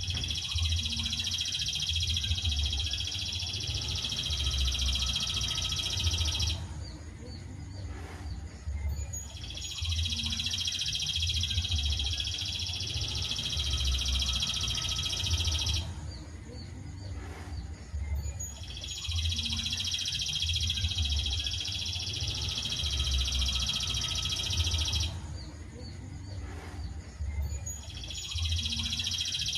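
Looped masteran birdsong recording for training songbirds: a high, continuous trill lasting about six seconds, repeated about every nine seconds, with a few short notes in the pauses.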